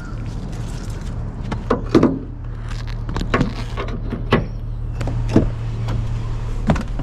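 A steady low engine hum, typical of a boat motor idling, with scattered short knocks and clicks over it.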